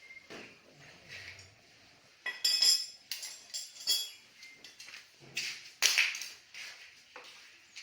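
Metal tools and parts clinking and knocking: a series of sharp strikes with short ringing tails, the loudest clustered about a third of the way in and again past the middle.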